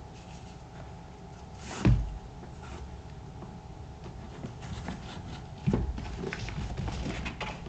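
Black Thorogood moc-toe leather work boots being handled: soft rustling and small clicks, with two dull thumps, about two seconds in and again near six seconds, as a boot is set down on a hard surface.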